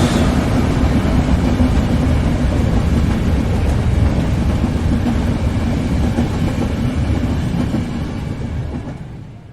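Train running past with a heavy rumble of wheels and cars on the rails, steady at first, then fading away over the last couple of seconds.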